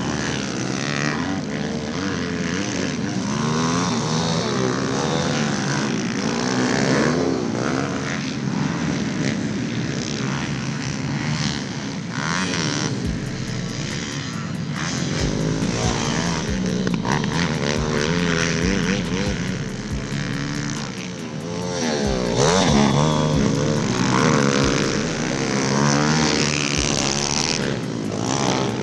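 Several small pit bike engines revving up and down as they race, their pitches rising, falling and overlapping throughout.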